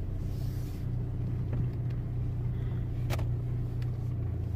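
Audi A3 1.9 TDI four-cylinder diesel engine running steadily at low revs, heard from inside the cabin while the car is manoeuvred slowly. A single sharp click about three seconds in.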